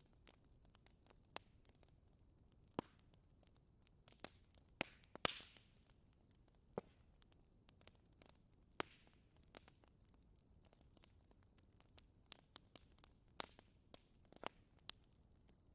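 Wood fire crackling in a fireplace: sparse, irregular snaps and pops, the loudest about five seconds in.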